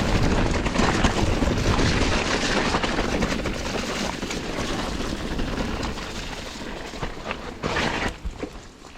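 Mountain bike ridden fast down a wet, muddy trail: wind rushing over the camera microphone, with the tyres and frame rattling over the rough ground. The noise eases off in the second half, with a brief louder rattle about eight seconds in.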